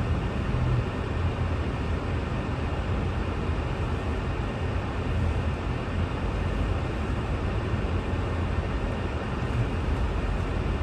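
Steady road and engine rumble heard from inside a moving car driving on snowy roads.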